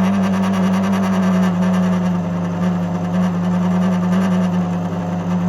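LG washing machine's drain pump running with a loud, steady hum, a sign of the faulty drain pump that leaves the machine humming and not draining.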